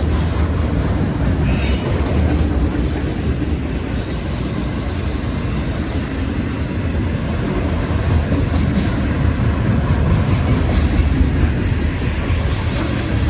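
CSX freight train rolling past, a steady, loud rumble of wheels on the rails. A faint high wheel squeal comes and goes about four seconds in and again near the end.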